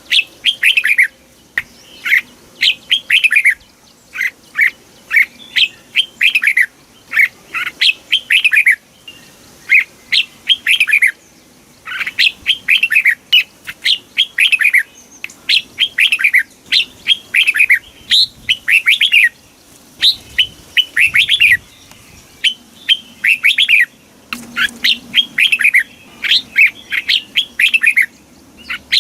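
Red-whiskered bulbul singing: short, lively phrases of quick down-slurred notes, repeated again and again with brief pauses between them.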